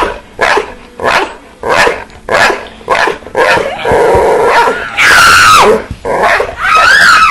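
Dog barking in a quick series, about two barks a second, then a longer growling bark about four seconds in, followed by two drawn-out howling yowls that glide up and down in pitch.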